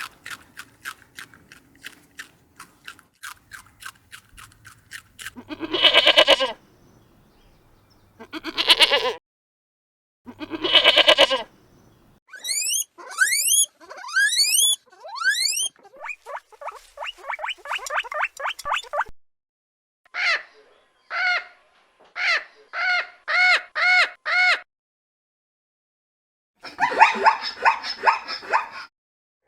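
A string of different animal calls, one after another: a run of quick ticks, three loud drawn-out calls, a burst of quick rising chirps, then runs of rapid repeated calls and a rough call near the end.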